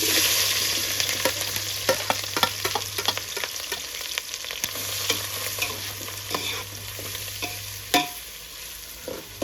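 Food tipped into hot cooking oil sets off a sudden, loud sizzle that slowly dies down as it fries. A utensil clicks and scrapes against the pan all through, with one louder clank near the end.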